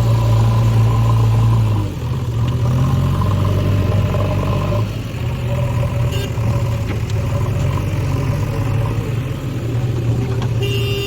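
Heavy diesel engine of a working machine running steadily, its low note easing down a little about two seconds in.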